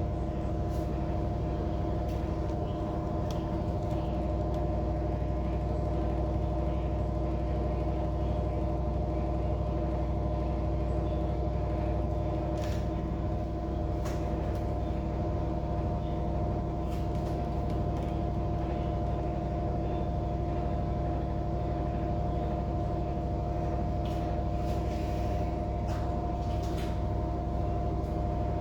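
Air conditioner running with a steady low hum and a constant whining tone, with a few faint clicks.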